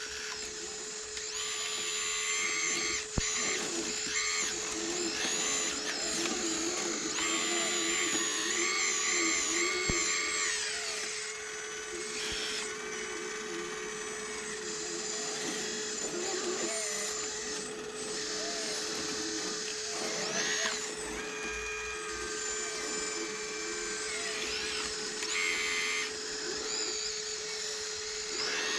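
Electric motors and hydraulic pumps of RC hydraulic construction models whining as they work, several high whines rising and falling in pitch over a steady hum, with a sharp click about three seconds in and another about ten seconds in.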